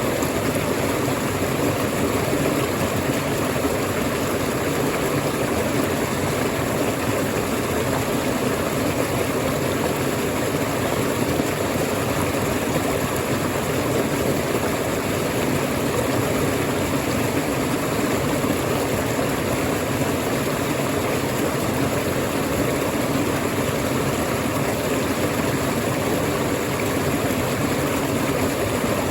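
Waterfall: a steady, deep rush of falling water that does not change.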